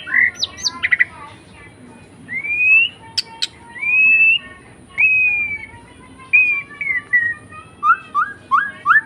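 Tame pet bird chirping and whistling: quick chirps, several longer whistled slurs, and a run of short rising chirps near the end.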